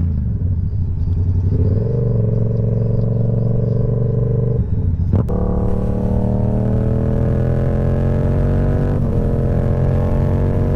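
Motorcycle engine running under way. The revs dip at the start and step up about two seconds in. About five seconds in there is a brief break with a sharp click, after which the engine note climbs slowly and steadily as the bike accelerates.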